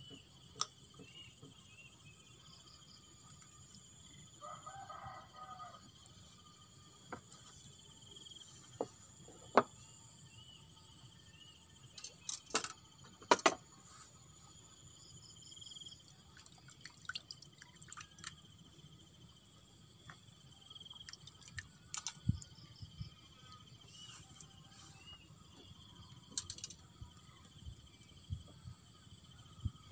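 A steady high chorus of crickets or other insects, with a rooster crowing once about five seconds in. A few sharp knocks stand out, two of them near the middle.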